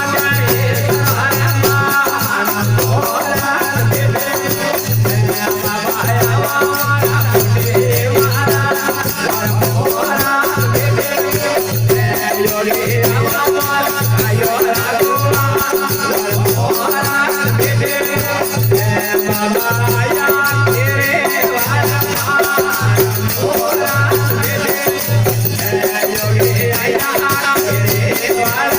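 Rajasthani desi veena bhajan, devotional folk music. A melodic line runs over a steady low beat of about one stroke a second, with rattling percussion.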